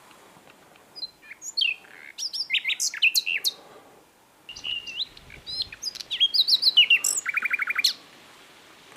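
Common nightingale singing two varied phrases of whistled notes and trills, the second ending in a fast run of repeated notes.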